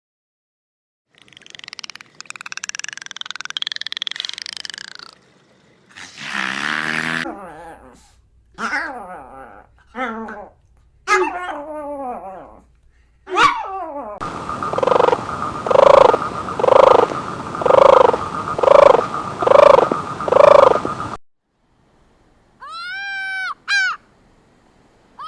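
A sequence of different animal calls cut one after another: a few short, varied calls, then about eight evenly spaced, repeated calls in the second half.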